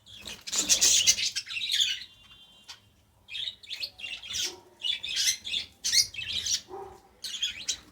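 Lovebird chick begging with high, squeaky chirps while it is hand-fed: a burst of calls lasting about a second and a half at the start, a pause of about a second, then a run of short calls.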